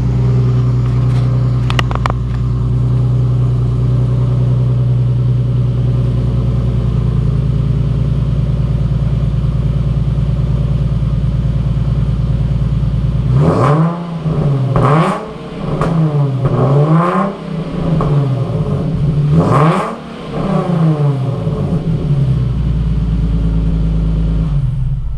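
Nissan 370Z's 3.7-litre V6 through a straight-pipe rear muffler delete with no cat, idling loudly and then blipped through about five quick revs halfway through before settling back to idle. The exhaust is pretty loud and raspy, too loud for hill-climb noise limits by the owner's reckoning.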